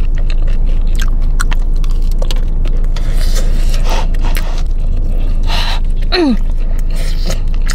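Close-up chewing and biting of a mouthful of fried chicken and rice, with wet smacking clicks, over a steady low hum. About six seconds in comes a short hum of pleasure that falls in pitch.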